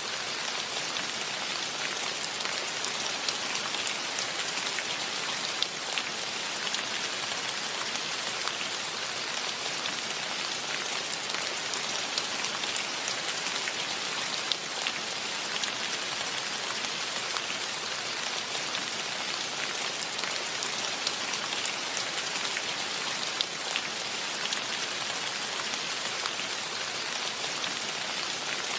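Steady rain falling, a dense even hiss with many close, crisp drop patters and no birdsong to be seen.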